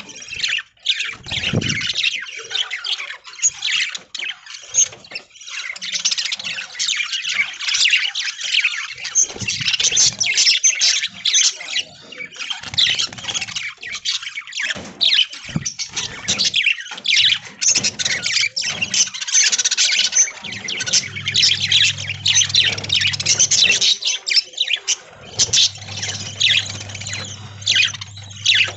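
A flock of budgerigars chattering and squawking without a break, many chirps overlapping. A steady low hum comes in about two-thirds of the way through, stops briefly, then starts again.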